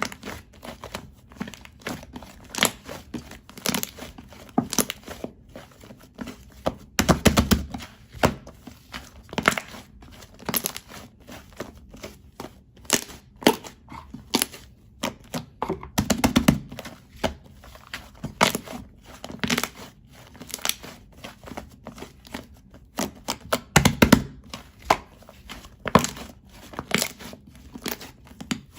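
Sticky white slime being pressed and pulled by hand, giving irregular sticky clicks and pops, with a heavier squelching press three times.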